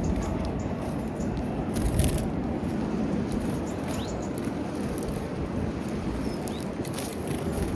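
Outdoor ambience at a bird feeder: a steady low rumble with a few faint, short chirps from small birds and a few light clicks.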